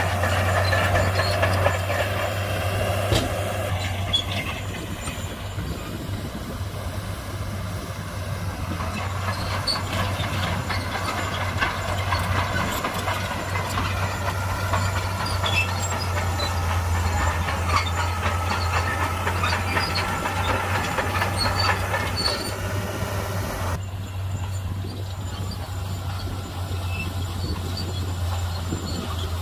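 Shantui crawler bulldozer working: its diesel engine drones steadily while the steel tracks clatter and squeal. The high track squeal drops away about 24 seconds in, leaving mostly the engine.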